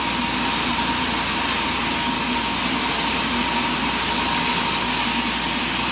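Portable sawmill running steadily, its engine and band blade making a constant noise with a steady high whine.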